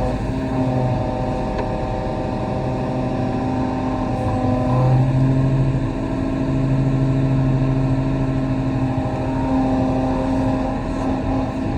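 Kobelco SK35 excavator's diesel engine running steadily as it digs. Its note shifts and grows louder about five seconds in and again a little later.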